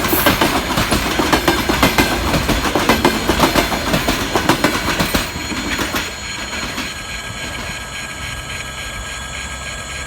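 Passenger train carriages rolling past, their wheels clattering rapidly over the rail joints. About six seconds in the clatter drops away and the sound becomes quieter and steadier, with thin high squealing tones from the wheels on the rails.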